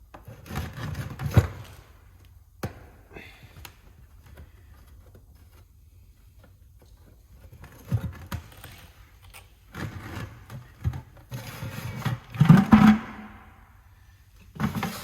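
Irregular clunks, knocks and scrapes of metal parts and tools being handled while working on a tractor. There is a sharp knock about a second and a half in, and the loudest cluster of clunks comes near the end.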